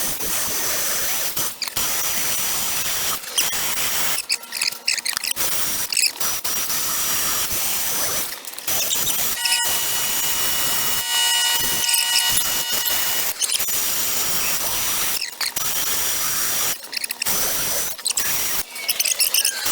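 Rotary die grinder porting an aluminium intake manifold, running in stretches of a second or several with short breaks between them, with a thin high whine throughout. About halfway through it squeals for a few seconds.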